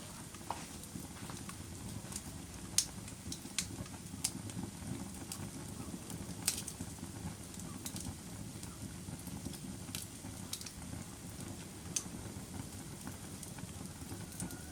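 Wood fire burning in a fireplace: a steady low rush of flames with sharp, irregular crackles and pops, the loudest about three, six and twelve seconds in.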